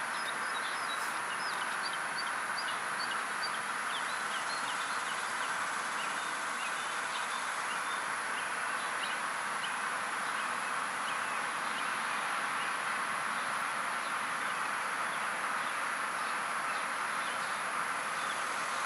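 Many short, high chirps of small birds, thickest in the first half, over a steady background hiss.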